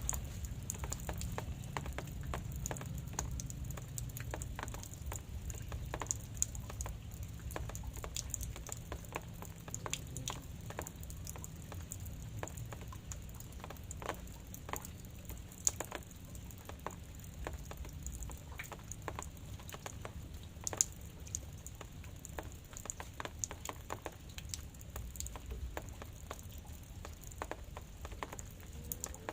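Light drizzle falling, with scattered raindrops making irregular sharp taps over a faint steady hiss of rain and a low rumble.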